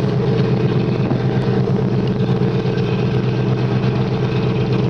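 Rescue icebreaker's engines running steadily, a constant deep drone heard aboard the ship.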